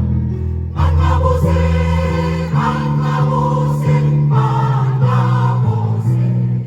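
Amateur choir singing a song with instrumental accompaniment, sustained notes over a steady bass line, the chords changing every second or so.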